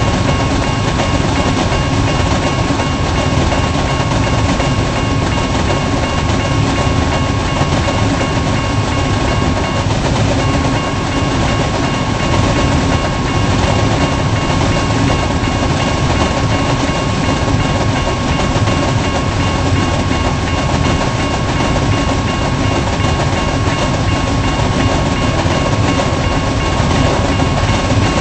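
Freight cars of a long intermodal train rolling past: a steady loud rumble of steel wheels on rail with clickety-clack, and a thin high-pitched tone held steadily over it.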